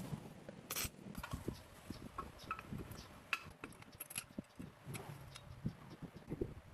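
Irregular light clicks and clinks of small metal objects being handled, several a second with short gaps.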